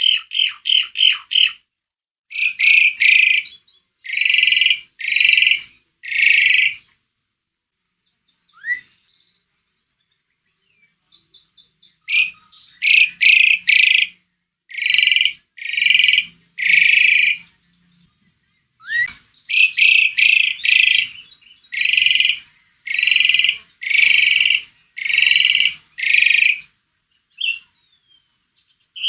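Javan pied starling (jalak suren) singing: a run of harsh, rasping calls, each under a second, delivered in groups of three to seven with short pauses, with a quiet gap of a few seconds in the first half and a couple of short rising whistled notes.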